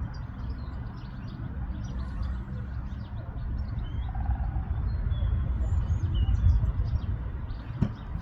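Small birds chirping over a steady low rumble, with a sharp click near the end.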